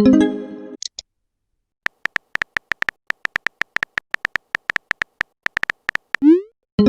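Messaging-app sound effects: an incoming-message tone at the start, then a run of rapid typing clicks, about five a second, for roughly four seconds. A short rising swoop follows as the message is sent, and another message tone comes at the end.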